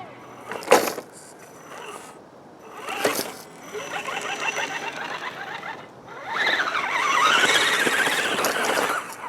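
Scale RC crawler truck's electric motor and gear drivetrain whining, the pitch rising and falling as the throttle changes, loudest in the second half. Two sharp knocks come in the first few seconds.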